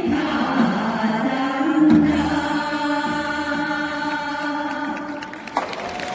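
A group of voices singing in unison, ending on a long held note that fades out about five seconds in.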